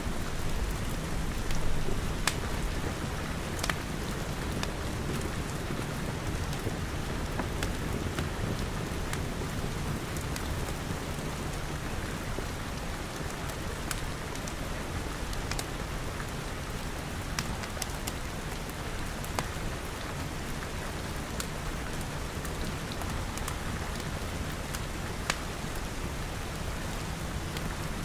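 Steady rain pattering on glass walls and roof, with scattered sharp crackles and pops from a wood fire and a low steady rumble underneath.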